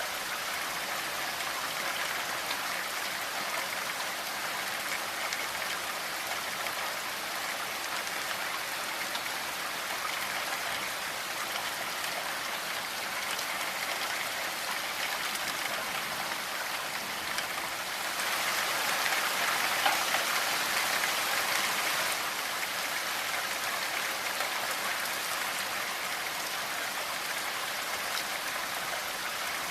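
Steady rainfall: a dense, even hiss of falling drops, swelling louder for a few seconds a little past the middle.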